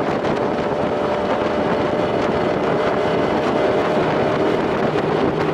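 1993 Evinrude two-stroke outboard motor running steadily under way, with wind on the microphone.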